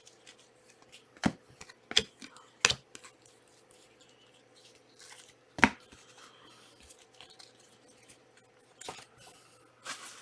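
Trading cards and foil packs being handled on a table: four sharp snaps and clicks of card against card in the first six seconds, with light rustling near the end.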